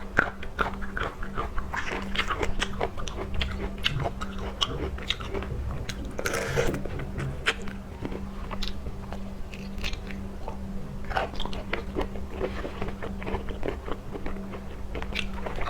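Close-miked chewing and biting of seafood: a dense run of wet clicks and crunches, with a longer hissing smear about six seconds in. A steady low hum runs underneath.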